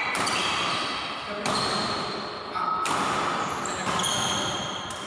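Badminton rally: racket strings hitting the shuttlecock four times, about one hit every second and a quarter, each hit ringing out in a large hall. Short high squeaks sound between the hits.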